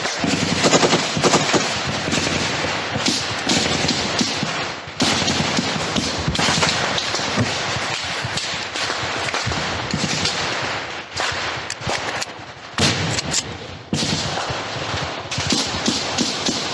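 Heavy automatic gunfire in a firefight: rapid, overlapping bursts of shots, thinning briefly about two-thirds of the way through before picking up again.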